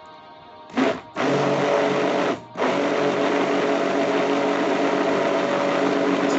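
Electric blender motor whirring as it mixes a cream that is thickening: a brief blip about a second in, a run of over a second, a short break, then a long steady run.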